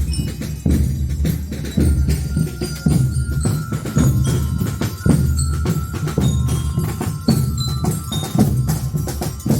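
Marching band playing a medley led by the lira (bell lyre, a marching glockenspiel), with short high ringing notes over drum beats that fall about once a second.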